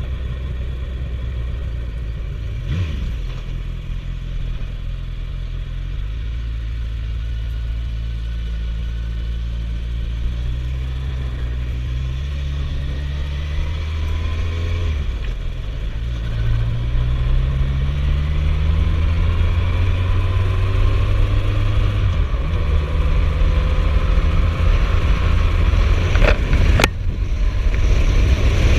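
Suzuki GSF1250S Bandit's inline-four engine under way, its note rising as it pulls through the gears, with short dips at the gear changes. It gets louder over the second half.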